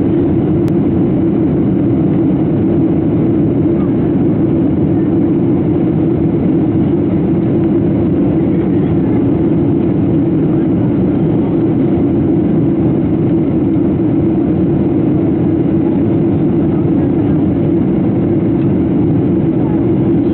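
Steady engine and airflow noise inside the passenger cabin of a Boeing 737-700 airliner in flight, heard at a window seat: an even, unbroken drone with its weight in a low hum, no changes in level.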